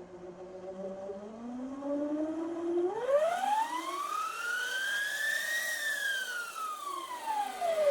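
Electric scooter's motor whine spinning up and winding down: one pitched whine that rises slowly, then climbs steeply to a peak about five and a half seconds in, then falls.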